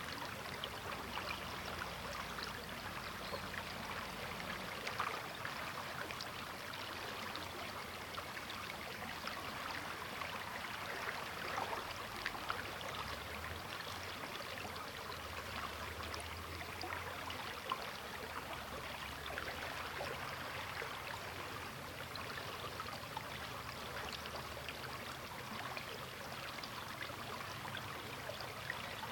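Sturgeon River flowing: a steady rush of running water, flecked with small splashes and trickles.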